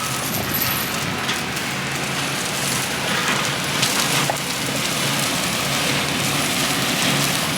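Tracked skid steer with a forestry mulcher head grinding up brush and small trees: a dense, steady shredding noise of wood being chewed to chips, with the machine's engine hum underneath and a few brief knocks.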